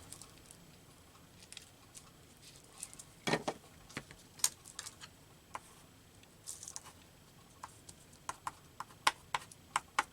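Scattered light taps and clicks of paper pieces and small craft tools being handled on a work surface, with a quicker run of ticks near the end.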